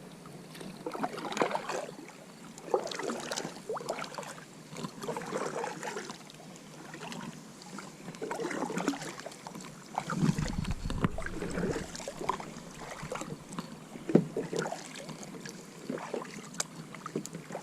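Kayak paddle strokes in the water, a swish and splash every second or two, with a louder low thump about ten seconds in.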